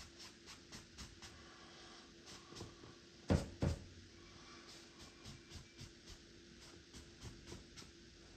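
Paintbrush working paint on canvas in quick, even dabbing strokes, about three light ticks a second. Two sharp knocks a third of a second apart come about three seconds in.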